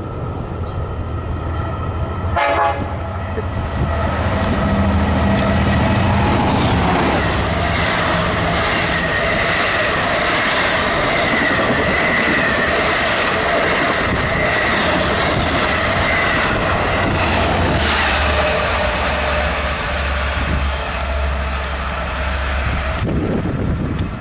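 Long Island Rail Road passenger train passing close by, with a brief horn sound about two and a half seconds in. Wheels and cars run loud and steady, with a high squeal-like tone through the middle, and the rumble falls away near the end.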